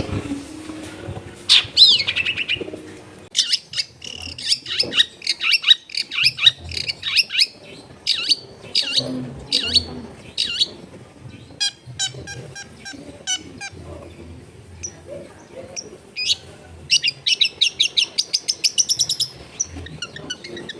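Long-tailed shrike singing: a varied string of sharp, high, downward-sweeping chirps and chatters that comes in runs, with a fast burst of rapidly repeated notes near the end.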